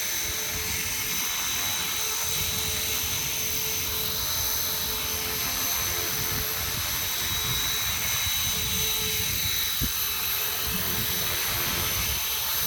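Small radio-controlled helicopter flying: steady high-pitched whine of its motor, with the rush of the spinning rotor. One brief knock about ten seconds in.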